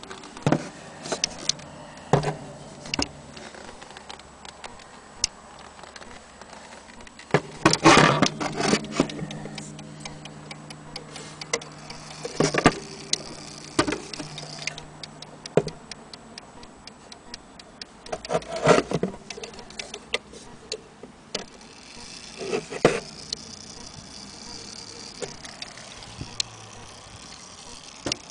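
Old HAC strike wall clock being handled: irregular clicks and knocks of its case and movement. About seven seconds in, a low ringing starts and lingers for several seconds before fading.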